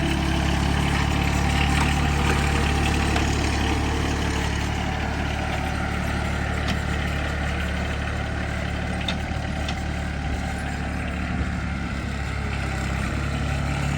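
John Deere X750 lawn tractor's three-cylinder Yanmar diesel engine running steadily.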